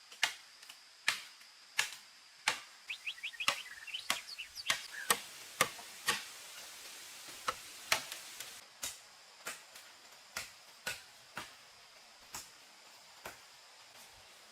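A series of sharp knocks or chops, roughly one to two a second, with a quicker cluster of small clicks about three seconds in. Some strikes ring briefly, over a faint steady high tone.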